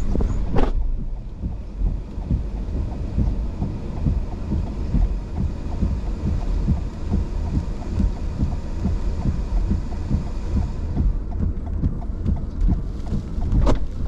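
Strong wind buffeting the microphone: a heavy, gusting low rumble, with a knock just after the start and another near the end.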